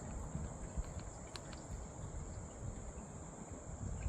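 Steady high-pitched trilling of crickets, with a low rumble on the microphone underneath.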